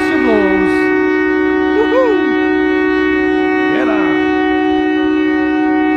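A ship's horn sounding one long, steady, multi-toned blast, with three short rising-and-falling cries over it.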